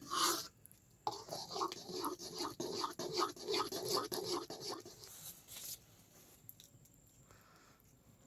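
Repeated scraping or scratching strokes, about three a second for several seconds, then fading out.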